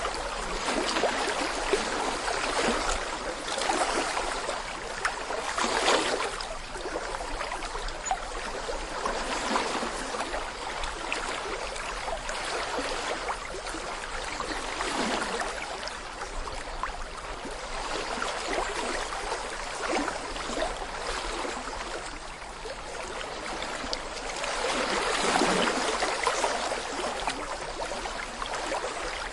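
Small brook babbling over stones: a continuous rush of water with gurgling, swelling and easing every few seconds.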